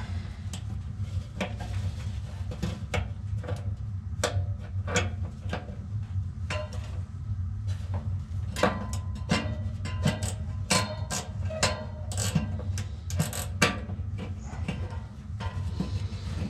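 A wrench clinking and knocking against the metal blower motor mount and housing in irregular, ringing taps, busiest in the middle, while the tech works at the loose mount bracket. A steady low hum runs underneath.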